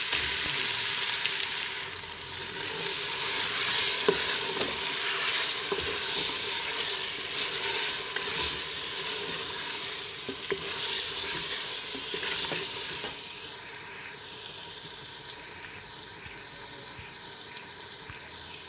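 Raw chicken pieces sizzling as they fry in oil and onion-tomato masala in a pressure-cooker pot, stirred with a wooden spoon that scrapes and now and then knocks sharply against the pot. The sizzle slowly dies down toward the end.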